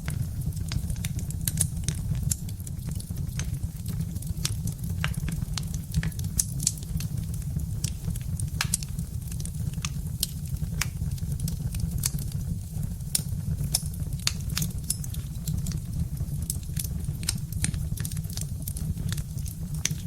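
Birch-wood fire crackling: many sharp, irregular pops and ticks over a steady low rumble.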